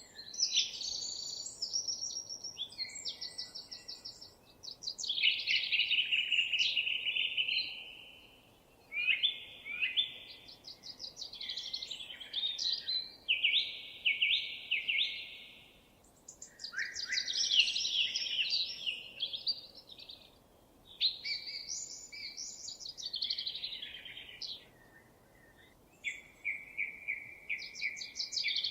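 A songbird singing a run of long, varied phrases of rapid trills and chirps, each phrase a few seconds long with short pauses between them.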